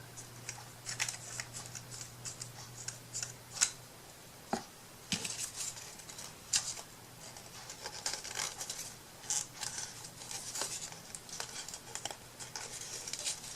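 Small craft scissors snipping repeatedly, in short scratchy cuts with a few sharp clicks, as tiny pieces of trim or paper are trimmed by hand.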